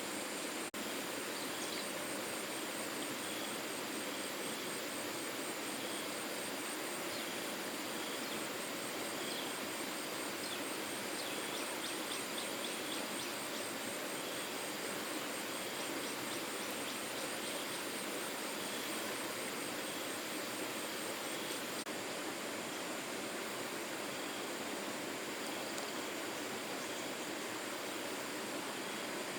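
Steady rushing of flowing water, with a fast, high pulsing trill running above it.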